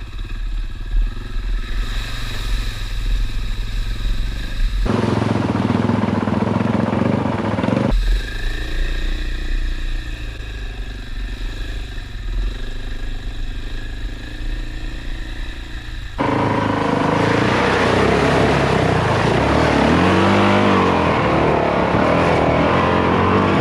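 Dirt bike engines running and revving as the bikes ride through a bog-hole crossing, over several edited cuts. The loudest stretch comes about two-thirds in, with the engine pitch rising and falling over a noisy wash.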